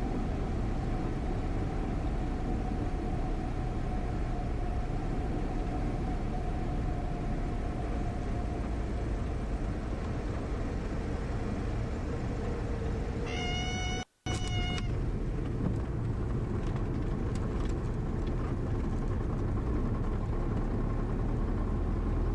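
Cessna 172 cabin noise heard through the intercom: the engine runs at reduced power and its pitch slowly sinks. About 13 seconds in the stall warning horn wails for about a second, with a brief cutout in the middle, as the plane flares to touch down.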